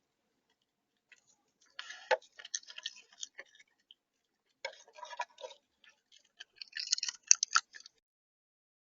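Rapid clicking and crunching of an animal feeding on seed at a bird feeder, close to the feeder's microphone, in three bursts.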